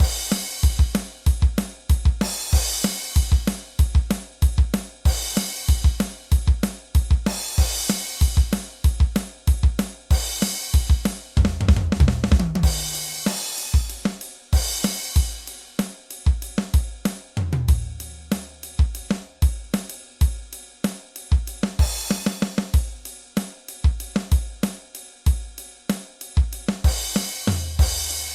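Rock drum kit playing a fast, driving beat: steady kick and snare strokes under crash cymbals that come about every two and a half seconds. Twice, a little before and after the middle, there is a tom fill stepping down in pitch.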